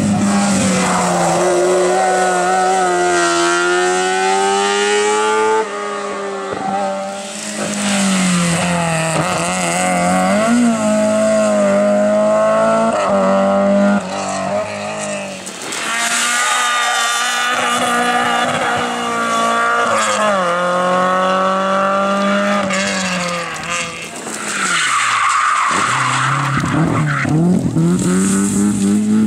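Race car engines running hard at full throttle, the pitch climbing through each gear and dropping back at every upshift. Near the end an engine falls away sharply as the car brakes, with tyres squealing.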